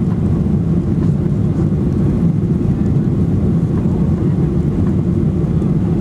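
Boeing 737-800's CFM56-7B jet engines running, a loud steady low rumble.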